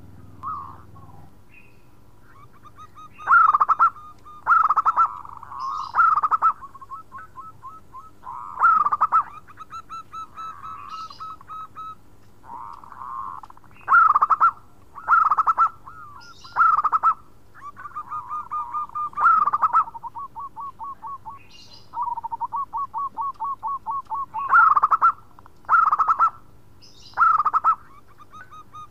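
Zebra dove (perkutut) singing: runs of rapid stuttering coo notes, broken about eleven times by short loud coos. Fainter high chirps of other small birds sound behind it.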